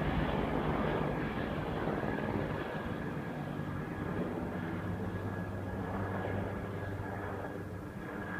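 Agusta-Bell AB 412 twin-turbine helicopter flying away, its rotor drone and a thin steady turbine whine slowly fading.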